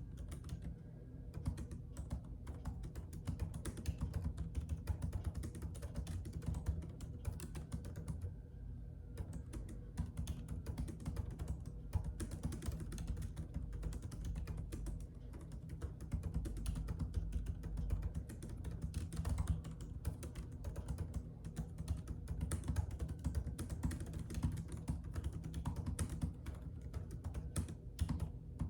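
Computer keyboard typing: a fast, irregular run of key clicks, with a few brief pauses, over a steady low hum.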